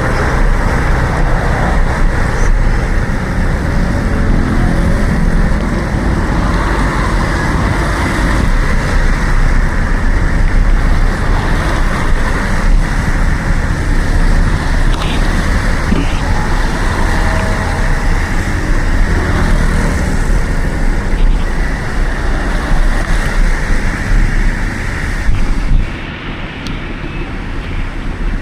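Steady rumble of wind and road noise on an action camera's microphone while riding a bicycle in city traffic. It drops noticeably in level near the end.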